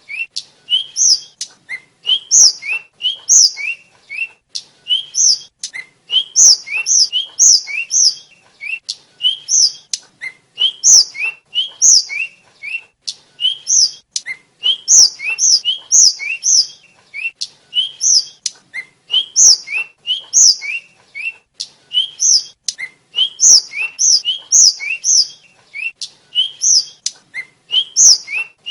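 Tledekan (sulingan) flycatcher singing: quick phrases of short, sharp, high whistled notes, each sliding in pitch, repeated over and over with brief pauses between phrases.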